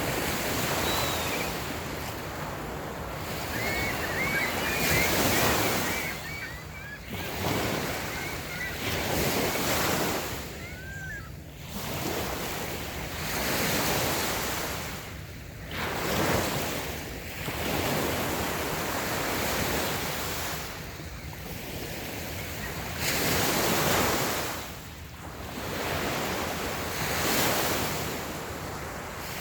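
Small waves breaking and washing up a sandy beach, swelling and easing every few seconds. A few faint high chirps come in between about four and eleven seconds in.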